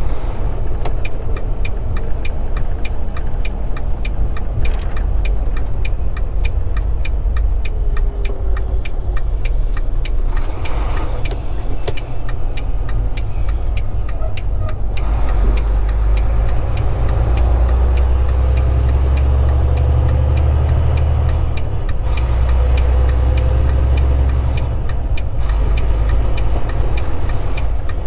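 Volvo 780 semi-truck's diesel engine running, heard from inside the cab, with a turn signal ticking steadily about twice a second for the first half. After the ticking stops, the engine's low rumble grows louder for about ten seconds.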